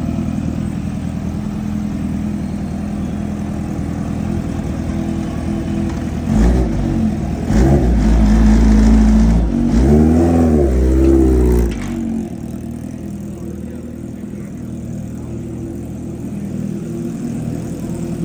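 Kawasaki Ninja H2R's supercharged 998cc inline-four engine idling, then revved in a series of rising and falling blips from about six to twelve seconds in, before settling back to idle.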